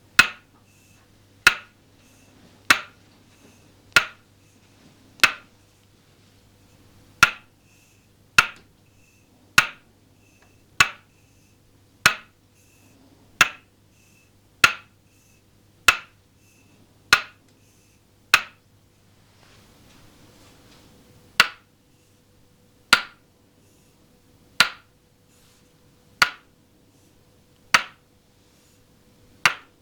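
Toksen massage: a wooden mallet tapping a wooden peg held against the body, giving crisp, evenly spaced wooden knocks about once a second. The tapping pauses briefly with a soft rustle near the middle, then carries on at a slightly slower beat.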